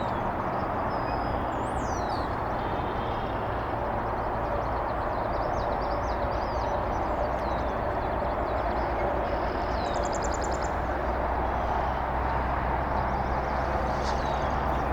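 A steady, even outdoor rumble, like distant traffic, with faint high bird chirps and short calls scattered over it, including a brief rapid trill about ten seconds in.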